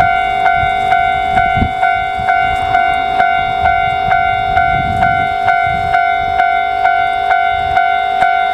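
Japanese railway level-crossing warning bell ringing at an even pace of about two strikes a second, over a low rumble.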